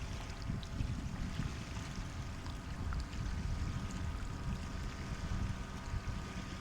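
Sea water washing against the shore as a steady, low rumble of surf, without any distinct wave breaking.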